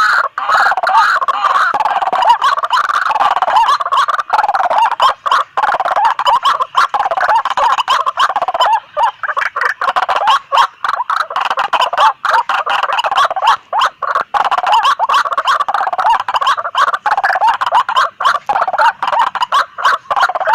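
White-breasted waterhens calling noisily: a dense, unbroken run of loud, harsh, wavering calls, cut by many brief gaps. It is the kind of call waterhens answer quickly, which is why it is used as a lure call.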